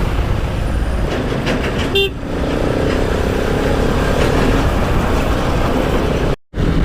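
Riding a motorcycle through city traffic: a steady rumble of engine, wind and traffic, with a short vehicle horn toot about two seconds in. The sound cuts out completely for an instant near the end.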